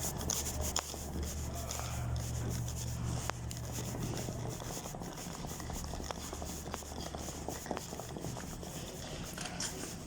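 Rubbing and rustling, with scattered small clicks, over a low steady hum that fades after the first half.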